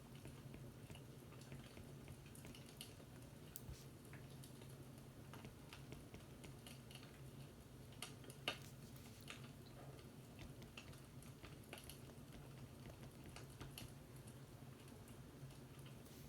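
Faint fireplace crackling: scattered small pops and crackles over a steady low hum, with one sharper pop about eight seconds in.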